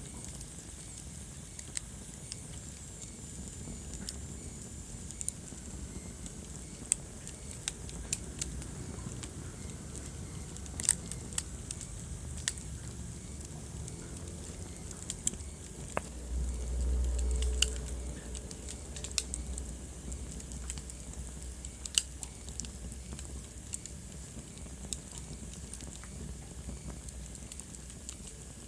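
Wood fire crackling in a fireplace: irregular sharp pops and snaps over a steady low hiss, with a low rumble for about two seconds just past the middle.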